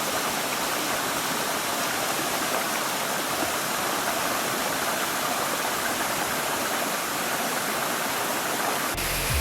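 Water rushing steadily down Posforth Gill's waterfall, an even, unbroken roar of falling water. Music with a low beat cuts in just before the end.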